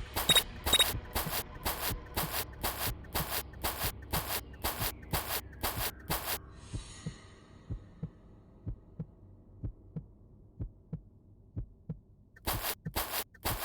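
Horse's hooves clopping at a steady walk, about two sharp knocks a second. The hoofbeats fade away about halfway through and come back loud near the end.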